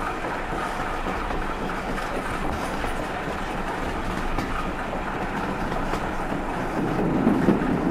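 Heritage railway train running along the track: a steady rumble that grows louder near the end.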